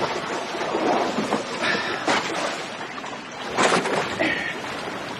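Water splashing and sloshing around a small boat with wind on the microphone, broken by several sharp splashes and knocks, the loudest about three and a half seconds in.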